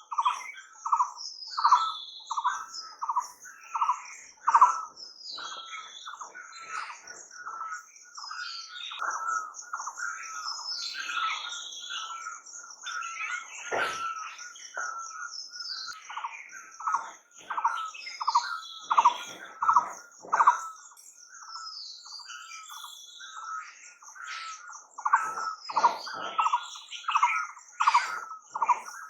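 Several birds calling and singing, one of them repeating a short note about twice a second, thinning out in the middle and picking up again near the end. A steady high trill runs underneath.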